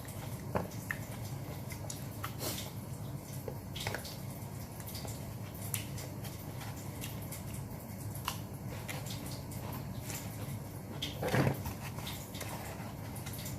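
Close-up eating sounds of someone chewing grilled chicken: scattered small mouth clicks and wet smacks over a low steady hum, with one louder, longer sound about eleven seconds in.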